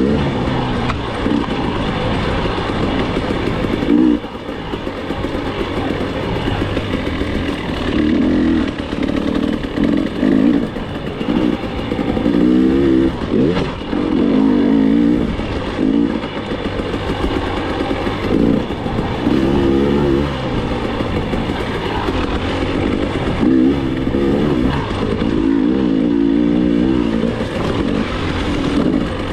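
KTM enduro dirt bike engine, heard from the rider, revving up and dropping back over and over as the throttle is opened and shut through the turns of a trail, with occasional knocks from the bike over the ground.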